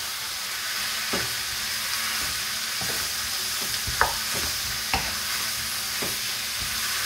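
Sliced chicken breast and peppers sizzling in a frying pan while a wooden spoon stirs them, with a few short knocks of the spoon against the pan.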